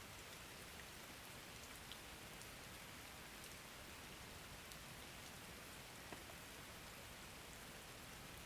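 Faint, steady rain, an even patter with scattered small drop ticks.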